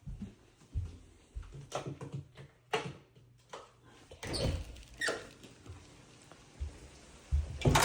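Footsteps and handling noise: irregular soft thumps mixed with short squeaks and knocks, busiest about four to five seconds in.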